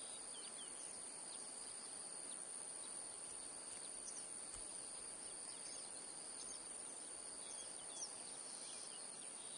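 Faint outdoor wetland ambience: a steady high-pitched insect trill over a low hiss, with scattered brief bird chirps.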